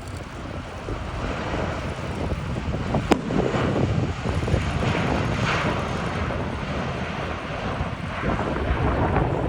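Jet airliner engines rumbling as the aircraft passes, swelling about a second in and holding, with wind buffeting the microphone. A single sharp click about three seconds in.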